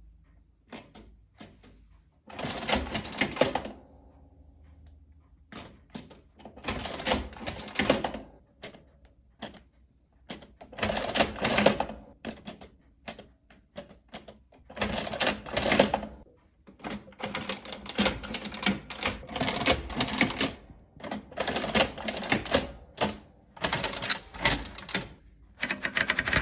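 1909 Burroughs Class 1 adding listing machine being operated. Scattered light clicks alternate with repeated bursts of mechanical clatter, each lasting a second or two, and the bursts come closer together in the second half.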